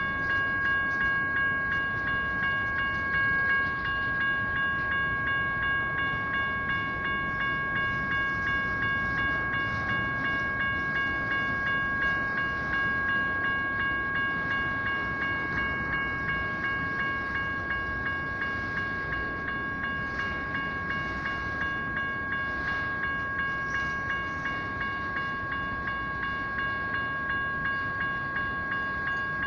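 Crossing's General Signals Type 1 electronic bell ringing steadily at about two strokes a second, over the rumble of a train rolling through the crossing.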